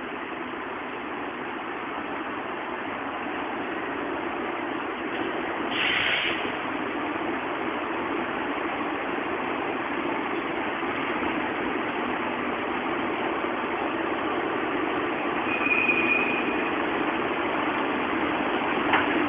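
ED76 electric locomotive hauling 14-series passenger coaches, approaching and drawing into the station to stop, a steady rumble of wheels on rails that grows slowly louder. A short hiss about six seconds in and a brief high-pitched squeal about sixteen seconds in.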